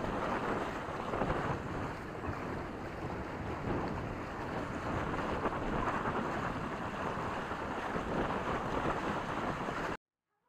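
Wind buffeting the microphone on a Reynolds 21 catamaran under sail, a heavy, uneven rush with water noise from the moving boat underneath. It cuts off suddenly near the end.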